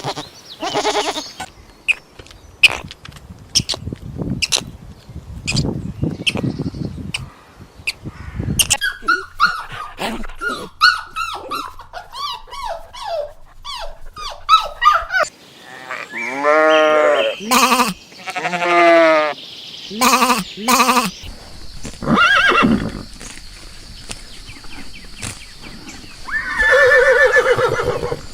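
Farm animal calls in a run of separate clips: first a series of sharp clicks and knocks, then quick warbling chirps, then several long pitched calls in the last half.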